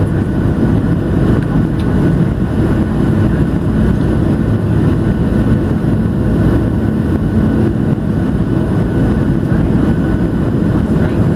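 Steady low rumble of cabin noise inside a Boeing 737-700 airliner: engine and airflow noise heard from a passenger seat, even throughout.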